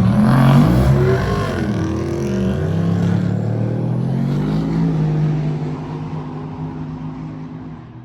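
Drag-race car engines accelerating hard at full throttle down the strip, the pitch climbing and dropping with gear changes in the first few seconds, then holding a steady note that fades away over the last three seconds.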